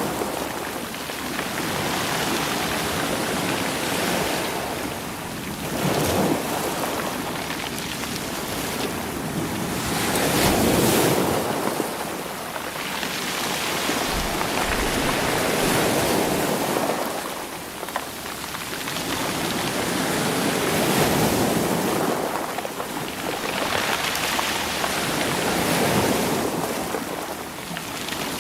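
Sea waves washing in over rocks and pebbles, each swell building and drawing back every few seconds in a continuous wash.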